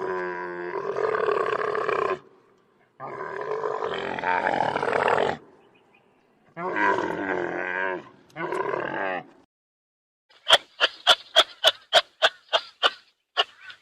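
A large animal giving four loud, drawn-out pitched calls, followed by a quick run of sharp clicks, about four a second, starting some ten seconds in.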